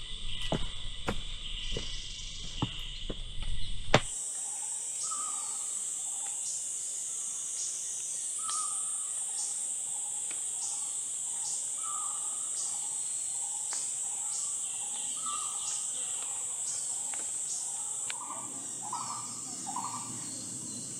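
A few footsteps on the trail at first, then, after an abrupt change about four seconds in, the steady high drone of forest insects pulsing about once a second. Over it a bird repeats a short call every second or so, calling more busily near the end.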